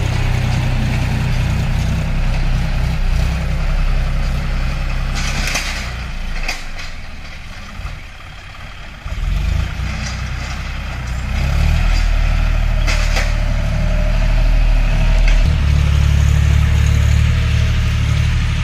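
Tractor engine running under work, easing off about eight seconds in, then pulling harder again, with a few sharp knocks and scrapes along the way.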